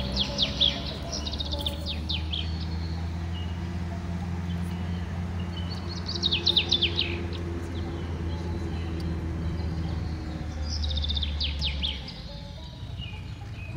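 A songbird singing a short phrase of quick, falling chirps three times, about five seconds apart, over a steady low hum.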